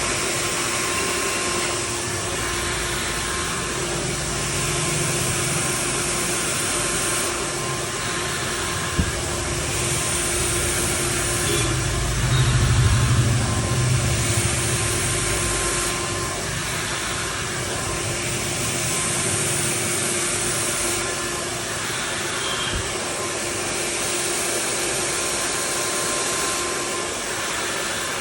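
Handheld hair dryer running steadily, a loud airy hiss with a steady hum that swells and eases every few seconds. A low rumble rises for a couple of seconds about halfway through, and there is a brief click around nine seconds in.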